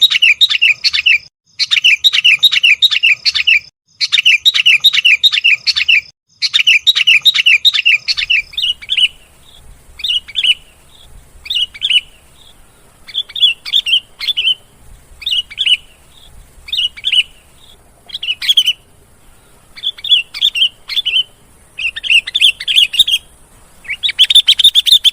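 Sooty-headed and yellow-vented bulbuls calling noisily. For the first eight seconds the calls come as dense runs of rapid chattering notes in bursts of about two seconds. After that they are single short phrases about once a second, growing dense again near the end.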